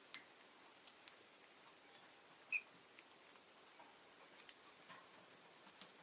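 One short, high chirp from a rosy-faced lovebird about two and a half seconds in, against near silence with faint scattered clicks.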